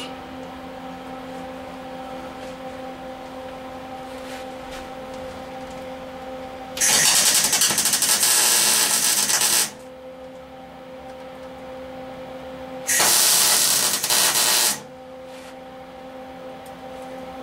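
MIG welder laying short welds on thin truck-cab sheet metal: two bursts of arc crackle, about three seconds and then about two seconds long, over a steady machine hum. The metal is thin enough that the welds have been burning through, so the setting has just been turned down.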